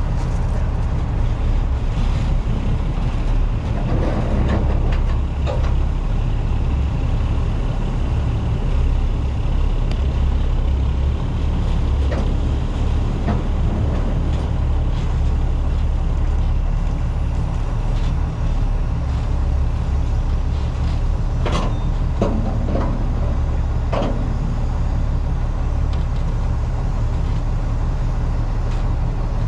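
Heavy truck's diesel engine running steadily, with a few sharp knocks about two-thirds of the way through.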